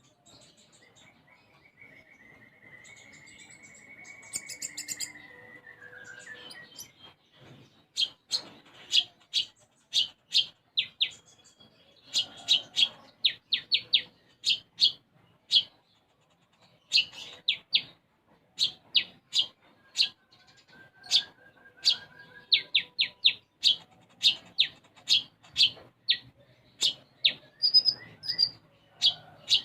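Konin (kolibri ninja sunbird) singing. It holds one long thin note early on, then gives quick runs of short, sharp, sparrow-like chirps: the house-sparrow (gereja) fill it has learned.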